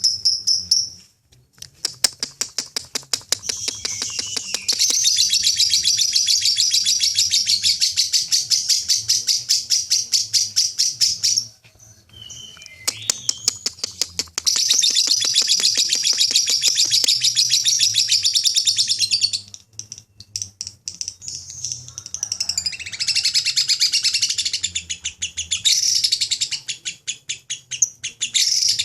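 Lovebird singing its long 'ngekek' song: rapid, high-pitched chattering chirps in long unbroken runs of several seconds each, with two short pauses between the runs.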